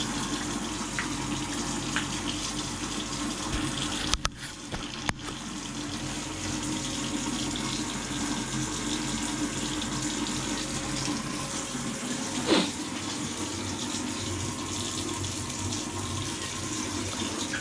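Tap water running steadily into a basin, left on to test the glued waste fittings for leaks. A brief sharp sound about twelve seconds in.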